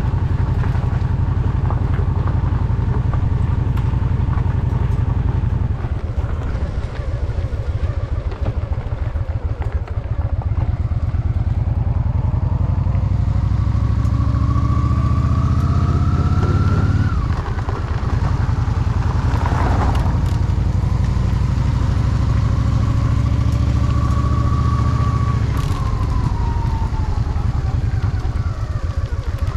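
Honda Shadow VT750's V-twin engine riding under way: the revs climb steadily twice, dropping off suddenly a little past halfway and again near the end. A brief rush of noise cuts across about two-thirds of the way in.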